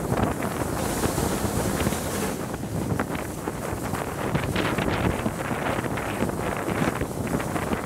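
Heavy wind buffeting the microphone over the steady running noise of a train hauled by Southern Railway West Country class steam locomotive 34027 Taw Valley, heard from an open carriage window just behind the engine, with scattered short knocks.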